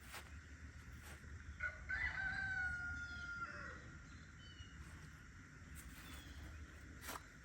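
A rooster crowing once: a single drawn-out crow lasting about two seconds, faint. A few sharp clicks are heard near the start and near the end.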